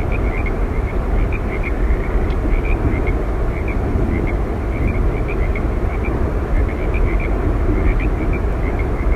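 Steady roar of Yosemite Falls, a dense rushing noise heaviest in the low end, with faint short chirps scattered over it.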